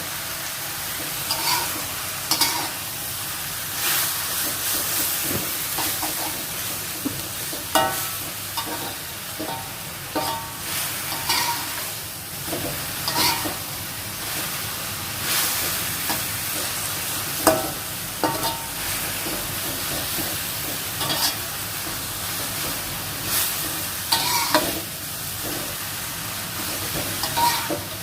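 Water spinach stir-frying in a pan over high heat: a steady sizzle, with irregular scrapes and clinks of the spatula against the metal pan.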